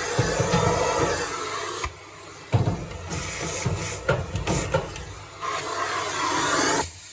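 Miele C3 vacuum cleaner running, its dusting brush rubbing and knocking against the inside of a tumble dryer. The suction noise drops out briefly about two seconds in and again near the end.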